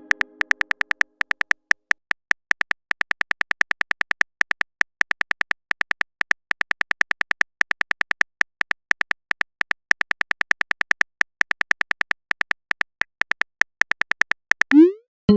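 Rapid clicks of a typing sound effect, many per second in uneven runs. Near the end a message notification chime sounds: a quick rising whistle, then a ringing chord.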